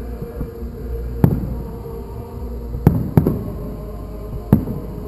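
Aerial fireworks shells bursting: four loud sharp bangs spaced about one to one and a half seconds apart, two of them close together in the middle, with smaller cracks between them.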